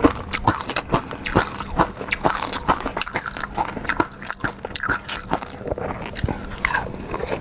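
Close-miked mouth sounds of a person eating seafood: chewing and biting with many quick, irregular wet clicks and smacks, several a second.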